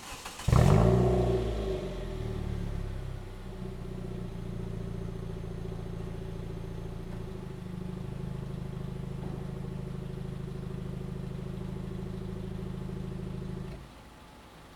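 Hyundai i30 (FD) 2.0 L Beta four-cylinder engine starting through an aftermarket variable exhaust end and sport resonator: a loud burst as it fires, an rpm flare that rises and falls, then a steady idle that cuts off sharply near the end.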